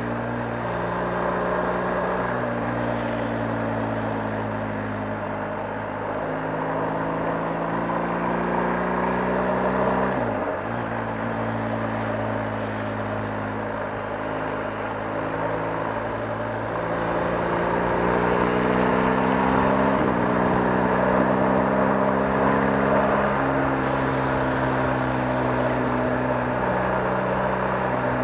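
BMW R 1250 GS boxer-twin motorcycle engine running steadily under way. Its pitch climbs slowly in stages, with short dips about ten and twenty seconds in.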